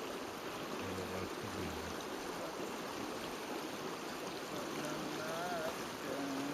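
Steady rushing noise like a running stream, with faint wavering voices in the background near the end.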